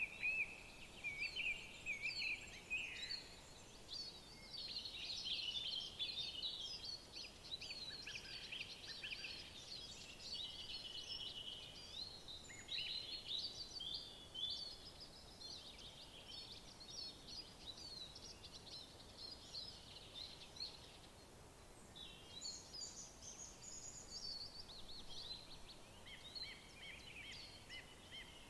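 Songbirds singing in overlapping songs of quick, high chirps, trills and warbled phrases, with a short burst of rapid repeated notes at the start, over a faint steady background hiss.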